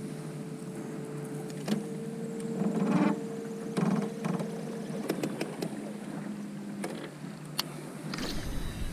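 A small electric motor humming steadily with two even tones, one cutting out about five seconds in and the other about seven seconds in, with a few knocks and clicks scattered through.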